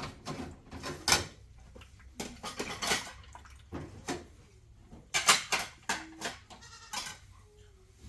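Irregular clattering knocks of hard objects, with short goat- or sheep-like bleats in among them, the clearest near the end.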